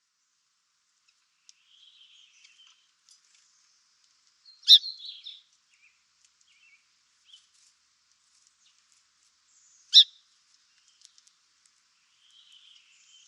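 Birds calling: two short, sharp, high chirps about five seconds apart, with faint high twittering between them.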